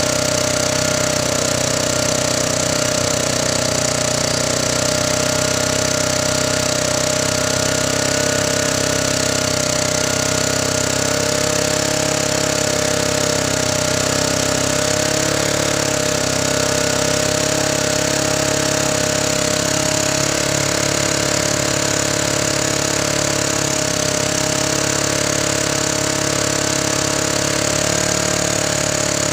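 Honda portable generator's engine running at a steady speed.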